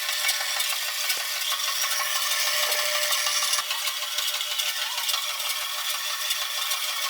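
Homemade band saw driven by a washing machine motor, running with a steady, dense metallic rattle.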